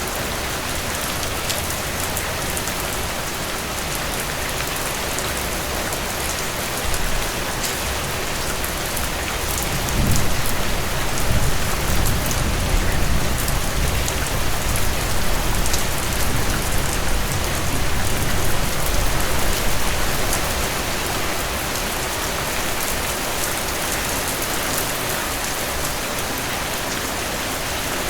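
Heavy, steady rainfall hissing on surfaces, with individual drops ticking through it. About a third of the way in, a low rumble swells up under the rain for around ten seconds, then fades.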